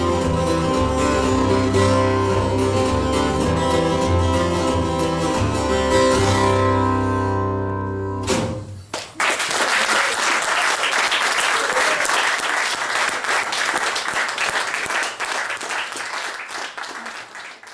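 Guitar's closing chords ringing over a steady low note, stopping abruptly about eight seconds in as the piece ends, followed by audience applause that fades out near the end.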